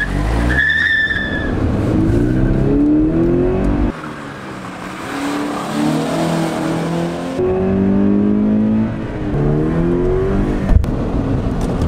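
2014 Scion FR-S's 2.0-litre flat-four boxer engine accelerating hard, its pitch climbing through repeated pulls, with a brief high squeal about a second in. The sound changes abruptly about four and seven seconds in, and there is a sharp click near the end.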